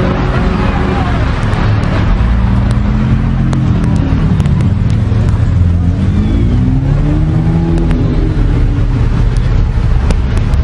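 Several sports-car engines running as the cars roll slowly past close by in a line, their engine notes rising and falling with light revving.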